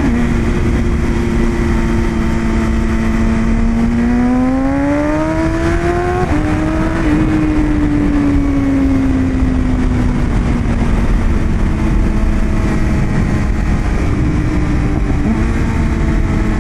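BMW S1000RR inline-four engine under way at speed: it holds steady, revs up, drops sharply at an upshift about six seconds in, then eases off and settles, stepping up slightly near the end. There is steady wind rush under it.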